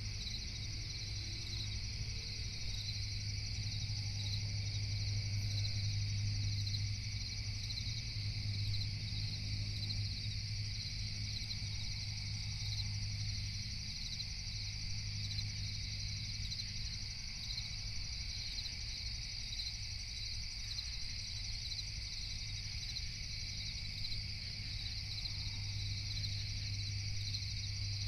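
Night crickets chirping in a continuous, rapidly pulsing high chorus over a constant low hum.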